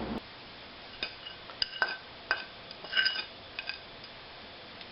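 A utensil clinking against a mixing bowl while peanut butter is added to a dry cereal mix. There are several short, irregular clinks, some of them ringing briefly.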